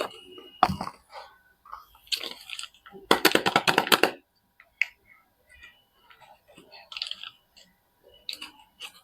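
Soap bars being unpacked by hand: wrapping crinkling and crackling in short bursts, with one dense run of crackling lasting about a second, about three seconds in.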